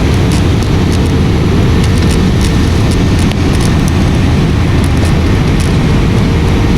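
Airliner cabin noise in flight: a loud, steady rumble of engines and airflow, with scattered light clicks and rattles.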